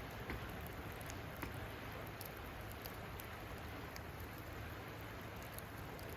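Wood campfire burning with a steady hiss and scattered sharp crackles and pops at irregular intervals.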